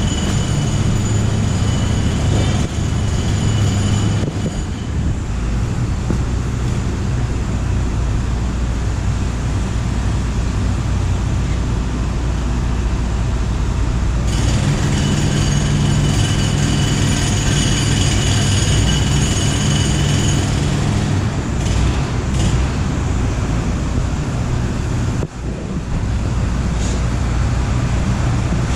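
Subway train running with a loud, steady rumble, its wheels squealing high in the first few seconds and again for several seconds midway through.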